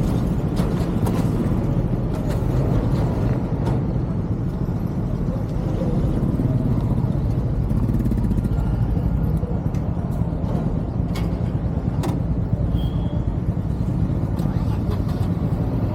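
Steady low rumble of a moving road vehicle at cruising speed: engine and road noise, with a few faint clicks.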